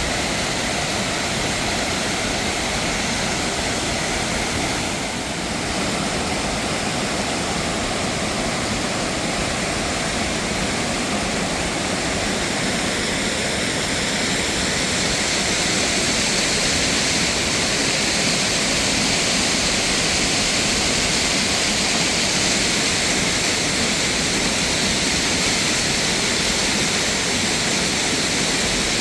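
Rushing water of a mountain waterfall, a loud steady wash of noise. It dips briefly about five seconds in and grows a little louder about halfway through.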